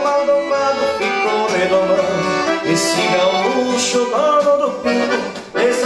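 Accordion (gaita) playing a traditional gaúcho song, with a singer's voice carrying the melody over it.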